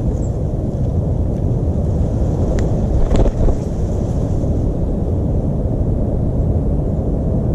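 Steady low outdoor rumble, with a few faint, brief high chirps and a short patch of light clicks about three seconds in.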